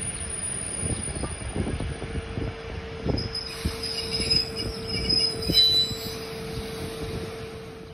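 Soviet-built DR1A diesel multiple unit rolling slowly into a station: irregular wheel knocks over the rail joints under a steady hum, with high wheel squeal from about three and a half to six seconds in.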